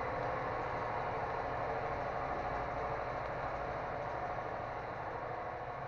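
Steady vehicle engine noise, slowly fading toward the end.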